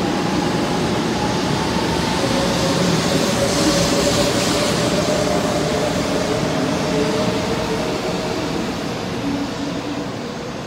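Shinkansen 500 series train pulling away from a station platform: a continuous rushing run of wheels on rail, with a steady whine under it whose pitch drifts slowly. It is loudest about four seconds in and fades near the end as the train draws away.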